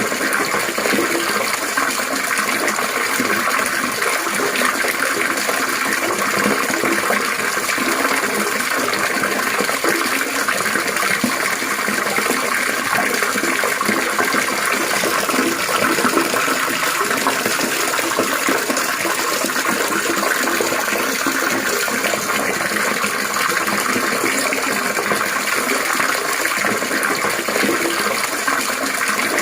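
Water trickling and splashing steadily, a continuous babbling with no change in level.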